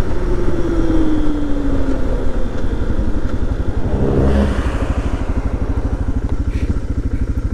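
Suzuki DR650's single-cylinder four-stroke engine dropping in revs as the bike slows, its pitch falling over the first couple of seconds. It then runs at low revs with distinct, evenly spaced firing pulses as the bike rolls onto the gravel road.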